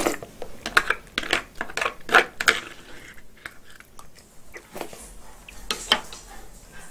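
Close-miked eating sounds: a person chewing steamed crab spooned from the shell, with wet mouth clicks and smacks, busiest in the first two to three seconds and sparser after.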